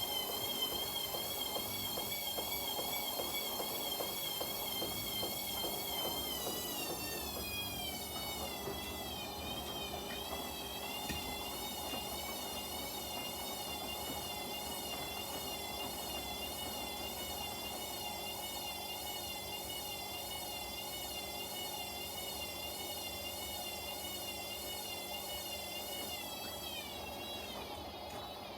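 Washing machine running a wash, its drum motor giving a high whine that wavers up and down over a steady churning. The whine glides down in pitch about seven seconds in and again near the end as the motor changes speed.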